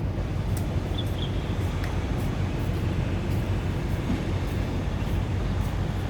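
Strong wind buffeting the microphone, a steady low rumble with faint ticks about twice a second and two short high chirps about a second in.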